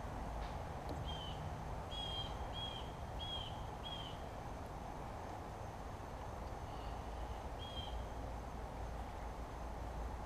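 A bird calling a run of five short, clear, evenly repeated notes starting about a second in, then two more near the end, over a steady low background rumble.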